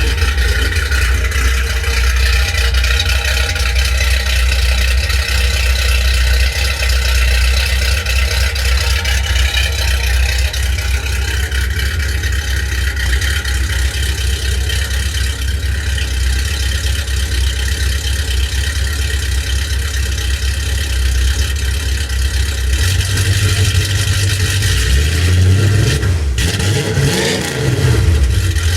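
1976 Ford Mustang's exhaust, fed by Hooker headers through hollowed-out catalytic converters and a 3-inch single pipe into an IMCO race muffler, with the engine idling steadily. Near the end it is revved up and down a couple of times.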